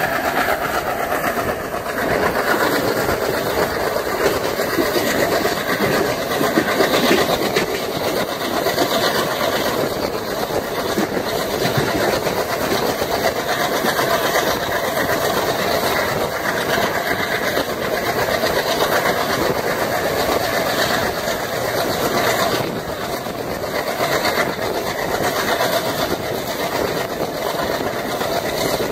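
Train hauled by twin WDM3A diesel locomotives running on the rails with a steady loud rumble and wheel noise, the locomotives working hard on the climb.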